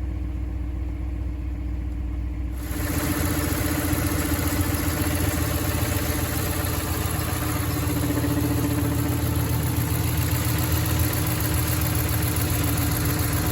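A 2015 Ram 1500's 5.7-litre Hemi V8 idling steadily. About two and a half seconds in, the sound suddenly gets louder and brighter, then holds steady without any rise in pitch.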